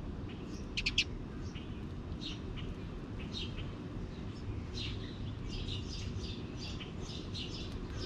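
Wild birds chirping in short, high notes scattered throughout, with a louder group of three quick chirps about a second in, over a steady low background rumble.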